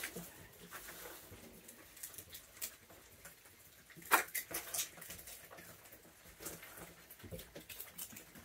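Raccoons eating treats: scattered small clicks and crunches, with one sharp knock about four seconds in.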